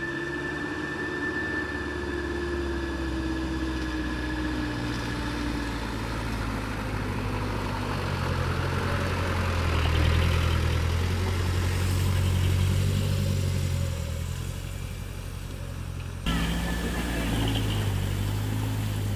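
Truck engine running, its low note swelling louder around the middle and easing off again, with an abrupt change in the sound about sixteen seconds in.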